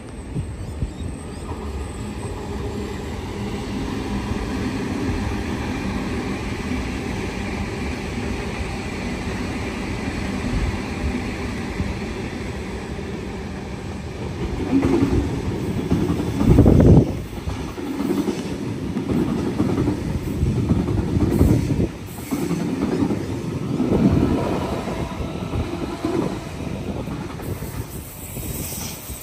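A train running past on the tracks: a steady rumble that builds through the first half, then a run of heavy knocks from the wheels on the track from about halfway, loudest a couple of seconds later.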